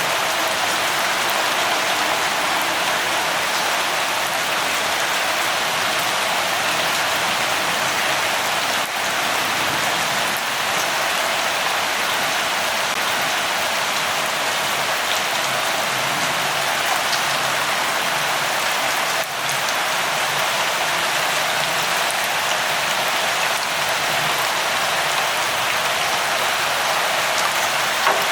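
Steady light rain falling, an even hiss that barely changes, with a few faint drop taps.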